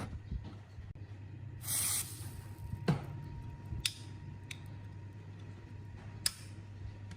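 A short half-second hiss of spray, followed by a few sharp clicks and taps, over a steady low hum.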